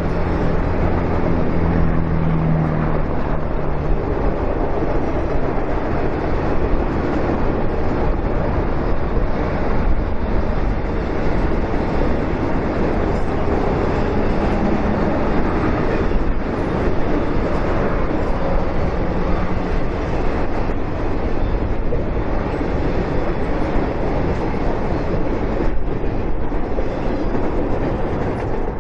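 Intermodal freight train's cars rolling steadily past, wheels clattering over the rails, with a low steady hum in the first few seconds.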